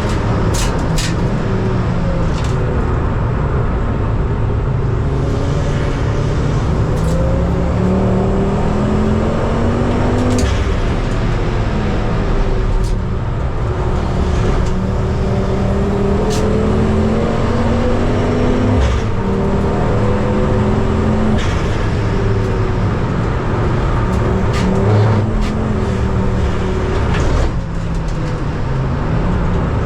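Racing car engine at race pace, its note repeatedly rising as it revs through the gears and dropping back at each shift, loud and continuous throughout.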